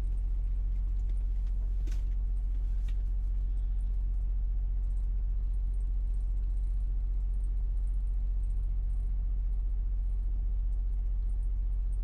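Semi-truck diesel engine idling with a steady low hum. Two light clicks about two and three seconds in.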